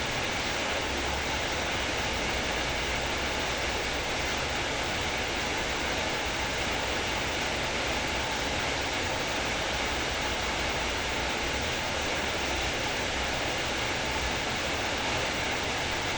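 Heavy rain falling steadily, a constant even hiss without breaks.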